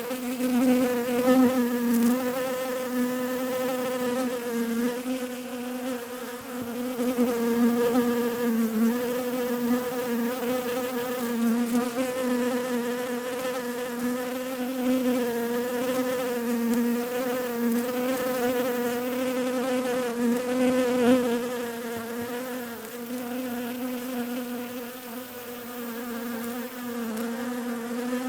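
Bees buzzing: a steady, continuous buzzing drone whose pitch wavers slightly up and down.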